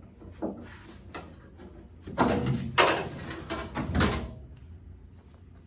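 A run of clattering knocks and scraping as something hard is shoved and moved out of the way, with a few light knocks first and the loudest clatter between about two and four seconds in.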